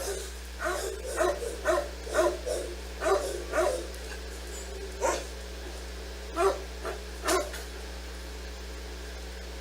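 A dog barking: a quick run of short barks, then a pause and a few more spaced-out barks.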